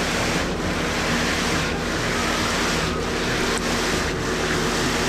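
Concrete pump running: steady diesel engine drone under a rushing noise that breaks off briefly about every 1.2 s as the pump strokes.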